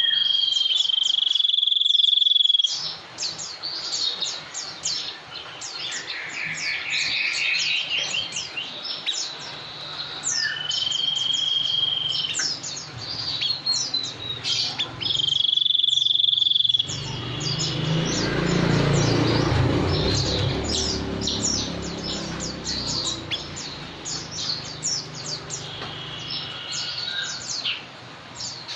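Birds singing: a dense run of rapid, high, short chirps, broken by several long, steady whistled notes and a fast trill. A low rumble rises under the song about halfway through.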